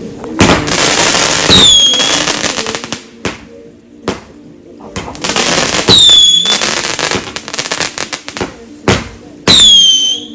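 Fireworks going off in three loud crackling bursts: about half a second in, around five and a half seconds in, and near the end. Each burst ends in a high whistle that falls and then levels off.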